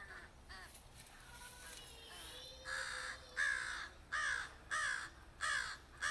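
Crows cawing: faint calls at first, then from about two and a half seconds in a steady run of loud caws, about three every two seconds.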